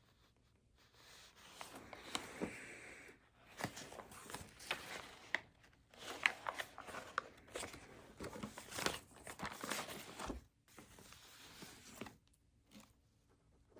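Close handling noise: rustling and crinkling with many sharp little clicks, starting about a second in and stopping about two seconds before the end.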